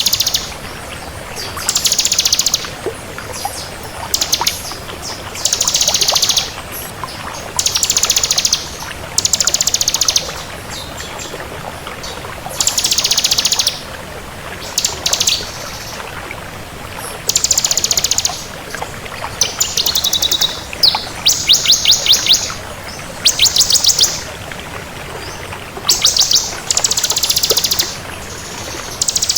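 Bar-winged prinia (ciblek kristal) singing persistently: about a dozen short, rapid, high-pitched trills, each about a second long, repeated every couple of seconds.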